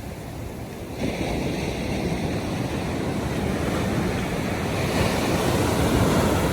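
Ocean surf washing onto the beach, swelling about a second in and building to its loudest near the end, with wind buffeting the microphone.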